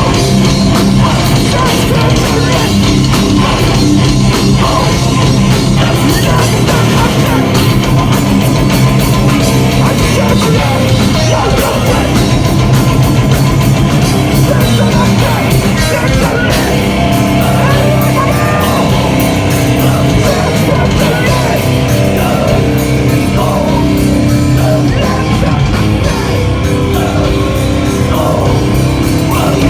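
Heavy, loud live hardcore/metal band playing: distorted guitars and drums with shouted vocals.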